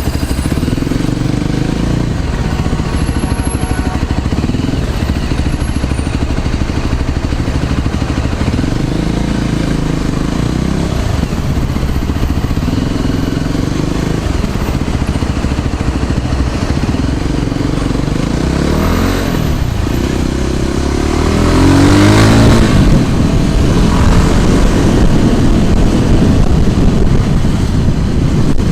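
Road traffic heard while riding a scooter: a steady low rushing and engine rumble. About three quarters of the way through, a vehicle passes close and the sound swells.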